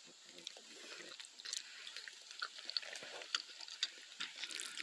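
Close-range mouth sounds of eating spaghetti: faint wet chewing with many small irregular clicks.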